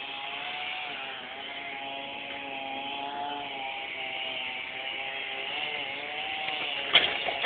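Engines of tree-clearing machinery running steadily, their pitch wavering slightly, with a sharp knock near the end.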